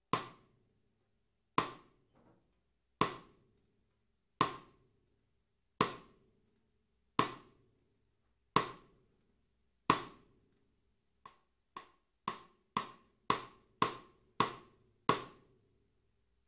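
A drum from a Gretsch Renown Purewood hickory kit struck with a stick in single strokes, each ringing out briefly: eight evenly spaced hits, then a faster run of about eight strokes that starts soft and grows louder.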